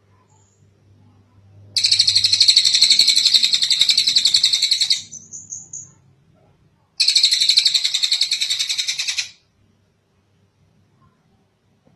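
Tengkek cililin bird calling in two long, rapid rattling trills of evenly repeated notes. The first lasts about three seconds and ends in a few quick separate notes; the second comes about two seconds later and runs a little over two seconds.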